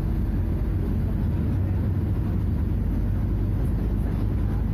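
Scania DC09 nine-litre five-cylinder diesel engine of a Scania F250HB bus running at a steady speed: a deep, even drone with no change in revs.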